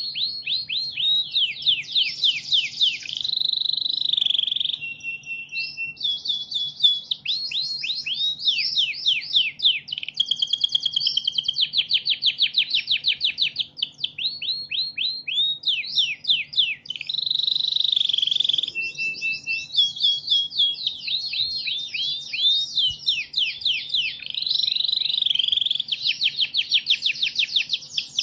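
Recorded songbird song played as a masteran tutoring track: continuous rapid runs of sharp, steeply falling chirps, broken by a few brief held whistles.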